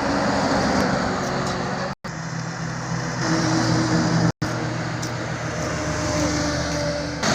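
Highway traffic with cars and trucks passing: a steady rush of tyre noise under engine hum. The sound drops out abruptly twice, about two seconds and four and a half seconds in.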